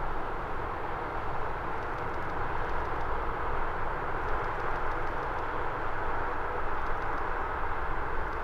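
Jet airliner arriving, its engines giving a steady rushing roar over a low rumble.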